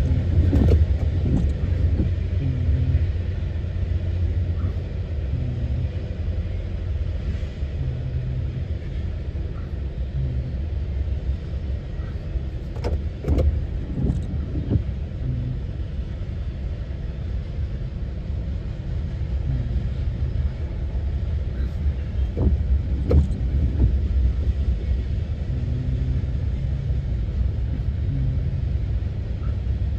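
Norfolk Southern double-stack intermodal freight train rolling past: a steady low rumble of wheels on rail, with a few sharp clanks about halfway and three quarters of the way through.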